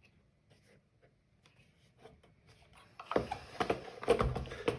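Plastic parts of a Eufy RoboVac robot vacuum being handled and fitted back together: a few faint ticks, then, about three seconds in, a busy run of clicks, knocks and rattles.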